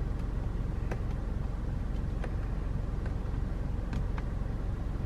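Several short plastic clicks of steering-wheel control buttons being pressed to work the digital dash of a 2017 Toyota Camry SE, spread over a few seconds, over a steady low hum inside the car's cabin.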